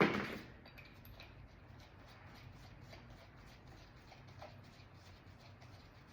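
A single loud knock right at the start, then faint scattered small clicks and scratches of plastic door panel parts being handled.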